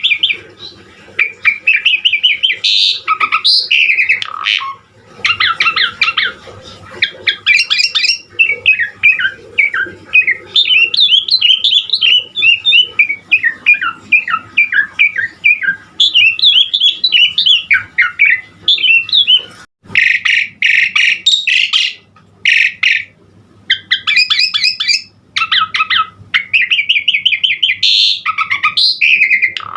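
Asian pied starling (jalak suren) singing continuously in full voice, a long run of varied whistled phrases, chatters and fast trills. Loud, rapid chattering bursts come about two-thirds of the way through.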